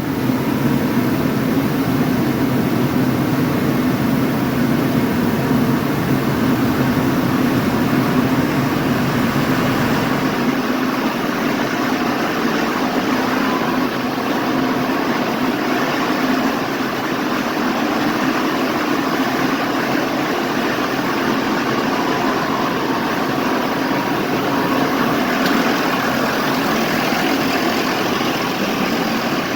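A motor engine idling steadily; about ten seconds in its deepest rumble drops away and the remaining sound holds steady.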